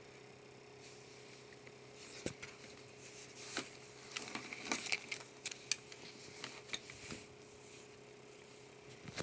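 Sketchbook pages being handled and turned: a run of paper rustles and small taps from about two to seven seconds in, then a sharper knock near the end, over a faint steady hum.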